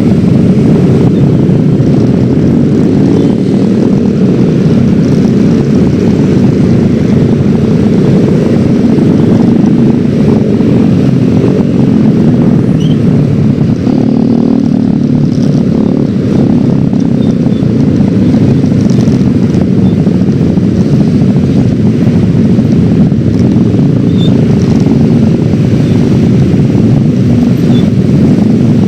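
Yamaha X-Ride 113cc single-cylinder scooter on the move: its engine runs steadily under a loud, even rush of wind and road noise on the microphone.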